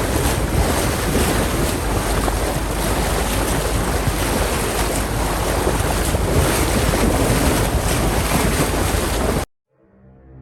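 Steady wind buffeting the microphone over the rush of sea water around a sailboat under way. The noise cuts off suddenly near the end, and soft music begins.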